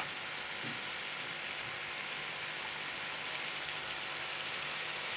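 Chicken feet frying in hot oil in a metal pan, a steady sizzle with freshly added dry spice powders on top.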